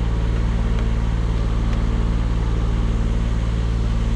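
A vehicle engine running steadily: a low, even hum with a fine, regular pulse that holds unchanged throughout.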